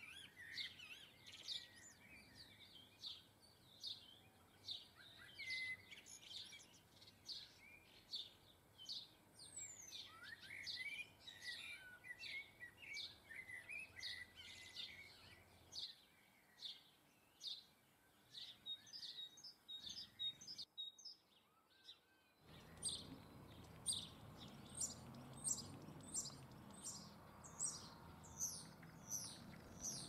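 Faint chorus of small garden birds chirping and calling, with many short, high calls. The calls break off for a moment about twenty seconds in, then return over a louder background hiss as a regular string of high, falling chirps, about two a second.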